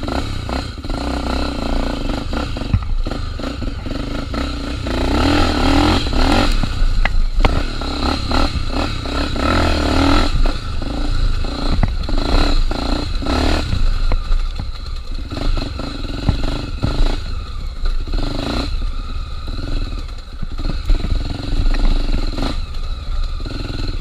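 Honda Tornado 250 trail bike's single-cylinder four-stroke engine running, its revs rising and falling, with frequent clattering and knocks as the bike rides over rough ground.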